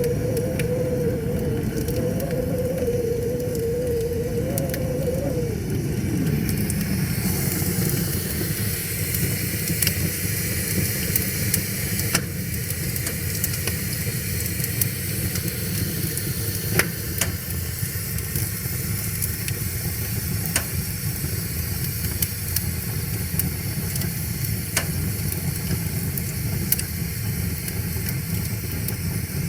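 Wood fire crackling with scattered sharp pops over a steady rushing of river water. In the first few seconds a wavering tone sounds, then drops in pitch and fades out about six seconds in.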